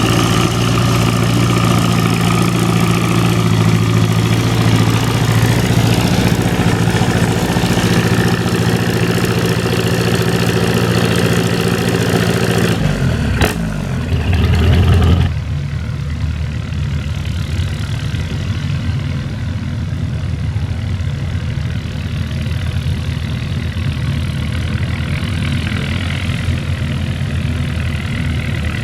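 Antique farm tractor engine running steadily, then a sharp click about halfway through and a brief louder low surge, after which an engine idles more quietly.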